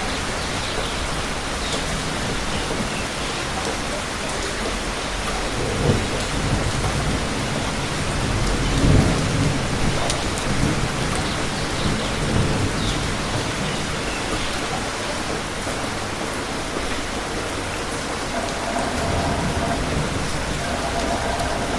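Steady heavy rain falling, with low rolls of thunder, the strongest about nine seconds in.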